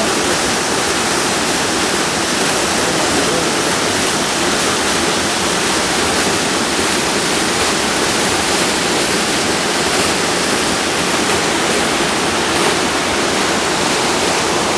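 A waterfall: a loud, steady rush of falling water.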